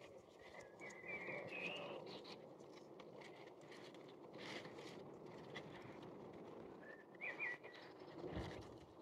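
Faint outdoor ambience with a few short bird chirps about a second in and again near the end, and a soft knock just before the end.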